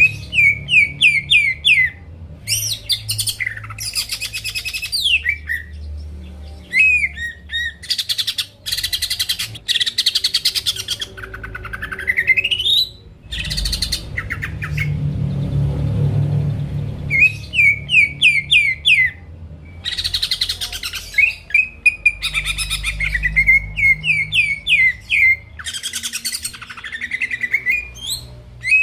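Green leafbird (cucak ijo) in full song: a loud, varied stream of phrases made of quick runs of repeated down-slurred whistles, rising glides and harsh buzzy rattles, with brief pauses between phrases.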